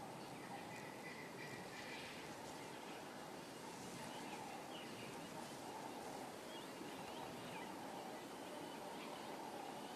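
Faint wild bush ambience: a steady even hiss with a continuous high chorus of calls and a few faint scattered chirps.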